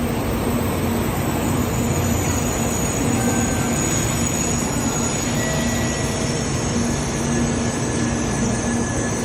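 Shinkansen train running at a steady speed: an even rumble and rush of noise with a low hum and a thin high whine held throughout.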